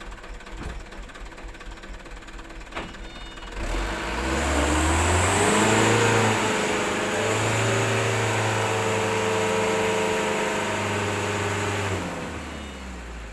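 Diesel engine of a loaded Mitsubishi Canter Super HDX dump truck idling, then revved hard about four seconds in, rising in pitch and held at high revs for about eight seconds before dropping back near the end. This is the truck straining to pull itself out of deep mud.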